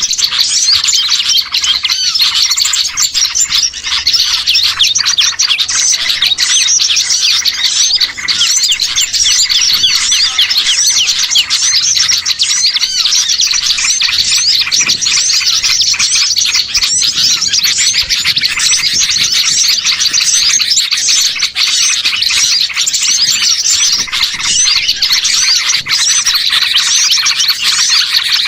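Dense, unbroken chorus of many small songbirds chirping and twittering at once, quick overlapping notes with no pauses: a 'pikat burcil' lure recording of excited small birds used to draw wild birds in.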